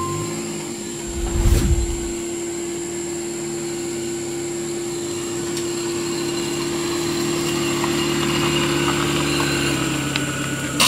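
Small car's engine running at low speed as it rolls slowly along a dirt track, a steady hum with a brief low rumble about one and a half seconds in; the note changes near the end as the car pulls up.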